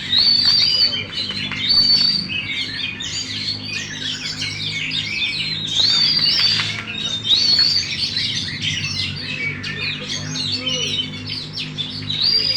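Oriental magpie-robin (kacer) singing a long, varied song of rapid whistles and chirps without pause, with a clear whistled phrase coming back several times. A faint steady low hum lies underneath.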